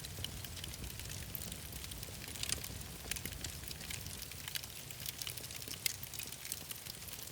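Wood fire crackling, with frequent small irregular pops and snaps over a low steady rumble.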